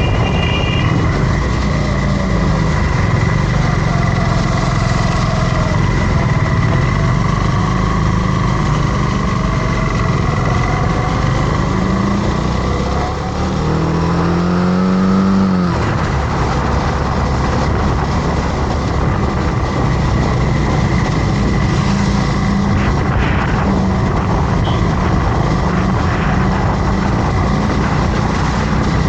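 Motorcycle engine running under way, with a steady rush of wind noise over it. About halfway through, the engine revs up in a rising pitch for a couple of seconds, then drops off suddenly, as at a gear change or throttle lift.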